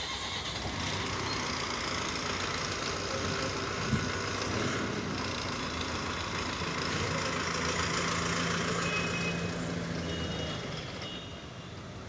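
Mahindra VX Master earthmover's diesel engine running steadily just after starting, swelling a little in the middle and easing near the end, with a single sharp knock about four seconds in.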